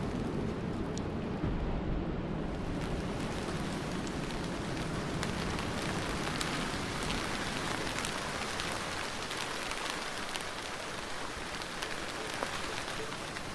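Steady rain: at first mostly a deep, dull rumble, which gives way about three seconds in to a brighter hiss of rain with many small drops pattering on a surface.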